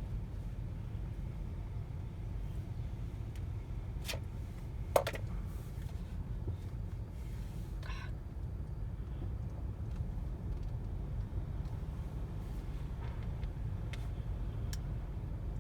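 Automatic car wash running: a steady low rumble, with one sharp click about five seconds in and a few fainter ticks.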